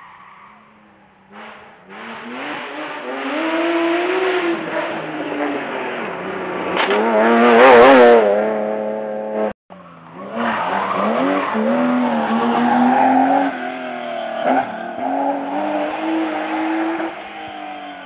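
Rally cars at speed on a stage. One car approaches, its engine revving up and dropping back through gear changes, and is loudest as it passes about eight seconds in. After an abrupt cut a second car is heard, also revving through its gears, fading near the end.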